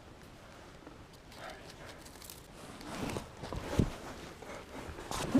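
Footsteps and rustling as someone makes their way over rough creek-side ground, with a few irregular heavier thuds.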